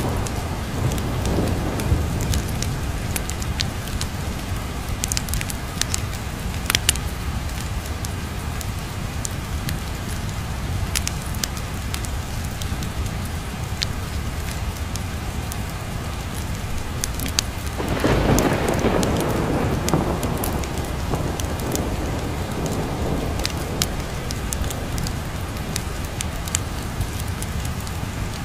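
Steady rain with low rumbling thunder and scattered sharp crackles of a fireplace; a louder roll of thunder swells about eighteen seconds in and fades over several seconds.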